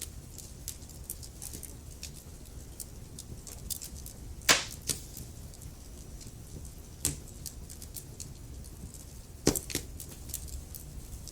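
Wood fire burning in a fireplace: steady crackling of logs over a low rumble of flames, with loud sharp pops twice, about four and a half seconds in and near the end.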